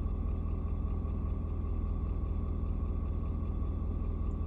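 Ford Super Duty's 6.7-litre Power Stroke V8 turbo diesel idling steadily, warming up after a cold start with its temperature gauge just beginning to come up.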